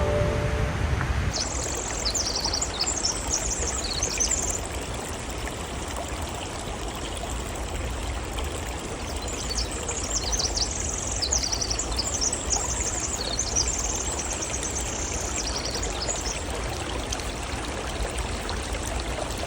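Creek water rushing steadily at a waterfall. A small bird sings in high, quick chirping phrases over it, about a second in and again from about nine seconds in.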